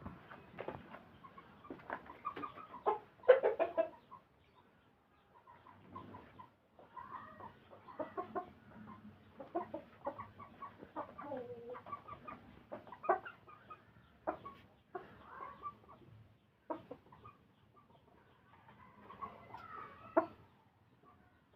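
Domestic fowl clucking in short, irregular calls, with a few sharp clicks among them.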